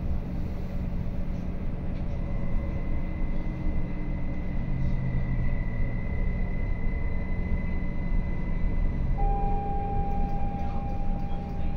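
Inside a RABe 526 electric multiple unit running slowly into a station: a steady low rumble from the running gear with a thin, high whine. About nine seconds in, a louder steady tone starts and runs on.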